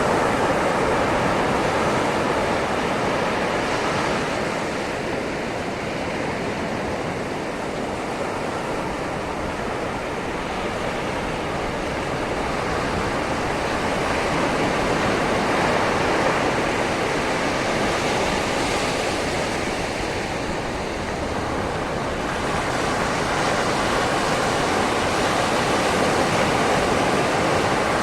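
Sea waves washing gently onto a shoreline, a continuous rush of surf. It swells and eases slowly over many seconds: loudest near the start, around the middle and near the end, with no single crash standing out.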